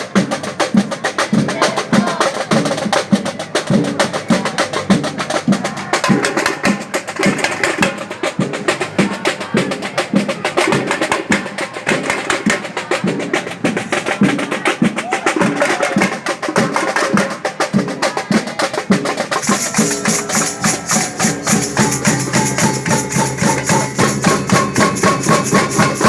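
Marching band playing: a fast, driving percussion beat of drums and sharp clicking strikes, with held notes from the band joining in about three quarters of the way through. The music stops abruptly at the end.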